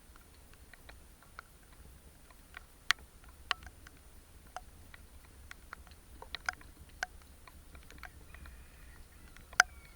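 Scattered sharp clicks and taps at irregular intervals, the loudest about three seconds in and near the end, over a faint steady low hum.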